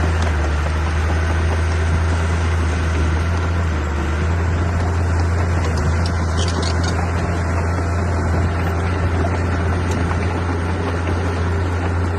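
Diesel engine of heavy earthmoving machinery running steadily with a constant low drone.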